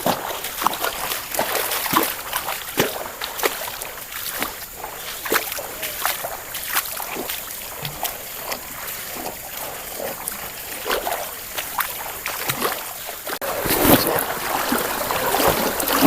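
River water splashing and sloshing in many short, irregular splashes over the steady sound of the flowing stream, as someone wades through it; the splashing grows louder near the end.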